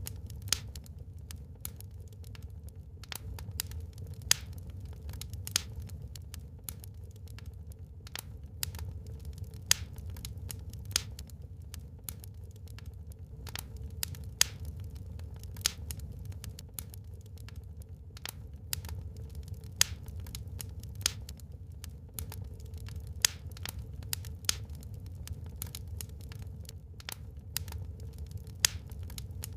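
Wood fire crackling in a fireplace: irregular sharp pops and snaps, a few a second with an occasional louder crack, over a low steady rumble.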